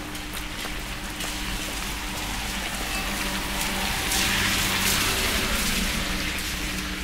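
Steady rain falling, an even hiss that swells louder about four seconds in and eases off before the end.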